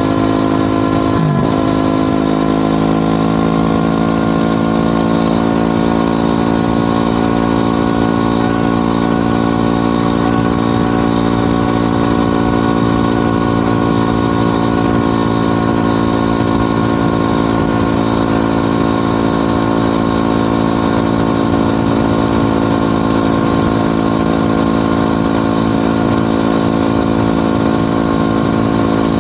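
Motorcycle engine and exhaust running at steady revs, with an unchanging pitch and a brief sweep in pitch about a second in.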